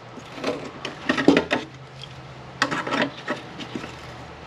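Steel pliers clinking and scraping against sheet-metal firewall panel as a cut piece is gripped and pried at, in three short clusters of clicks and scrapes.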